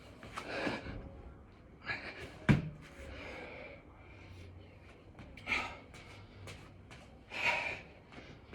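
Hard, heavy breathing from a man exerting himself through six-count burpees, with sharp breaths every couple of seconds and a thud about two and a half seconds in as his body meets the floor.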